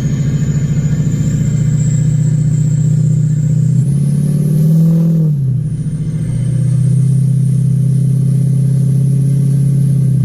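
Ford 6.0 Powerstroke V8 turbodiesel pulling under load, with a high turbo whistle over the engine note. About four seconds in the engine climbs briefly with the whistle, then drops back and settles.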